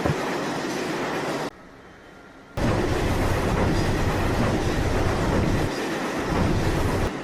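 Subway train running, a steady rumble and rattle of the cars on the rails. It drops out abruptly about a second and a half in and comes back loud about a second later.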